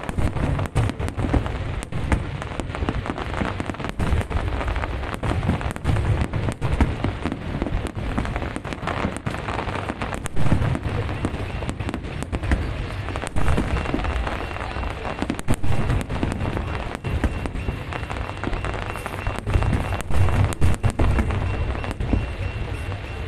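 Fireworks going off in quick succession: a dense crackle full of sharp bangs, with heavy low bursts throughout.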